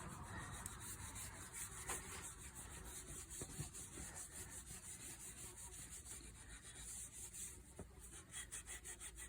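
Faint, rhythmic rubbing as boiled linseed oil is worked into a sanded wooden hammer shaft.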